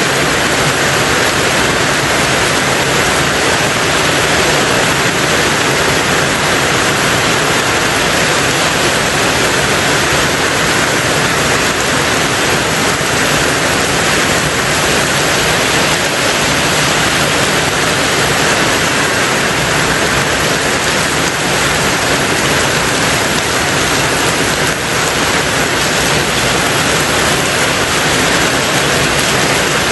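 Rain falling steadily on a tin roof, a dense, even hiss with no single drops standing out.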